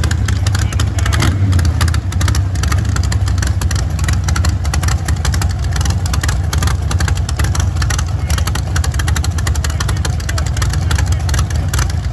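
A vehicle engine running loud and steady, with a dense pulsing throb.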